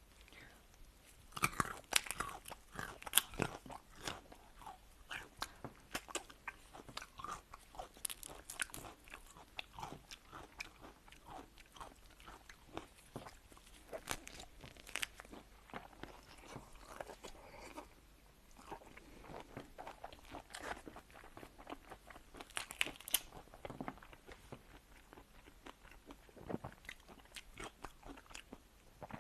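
Close-miked eating of seafood: irregular crunching, biting and chewing with wet crackles, in louder clusters every few seconds.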